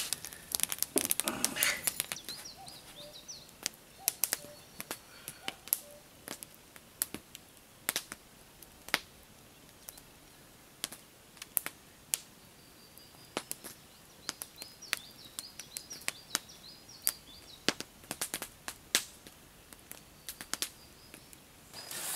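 Scattered sharp clicks and taps at an irregular pace, one or two a second, with faint bird chirps in the background.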